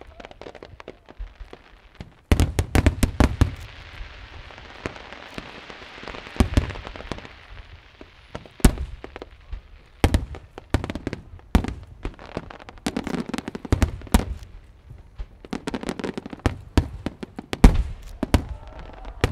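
Fireworks show: aerial shells bursting in quick irregular bangs and clusters of bangs, with a hissing crackle from about three to eight seconds in and a low rumble after the heaviest bursts.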